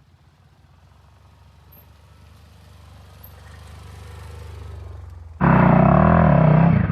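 A motorcycle engine, faint at first and slowly growing louder, then suddenly much louder about five seconds in, its pitch wavering up and down as the throttle is worked.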